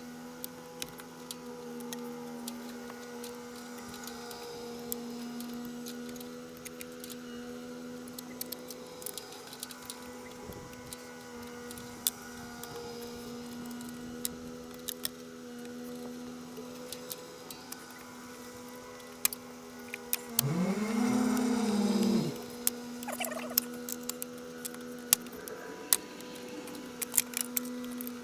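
A steady mechanical hum with scattered light clicks and taps of handling. About twenty seconds in, a cordless drill runs briefly: its motor speeds up and winds down over about two seconds, the loudest sound here.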